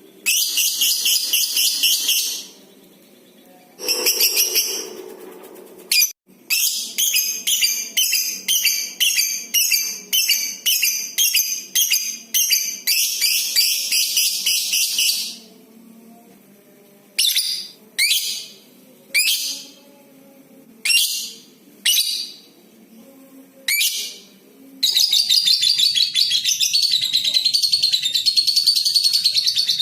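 Lovebird calling: harsh chattering bursts, then a quick run of repeated chirps, then single sharp falling chirps about once a second. About 25 seconds in it breaks into one long unbroken chattering trill, the long 'ngekek' call.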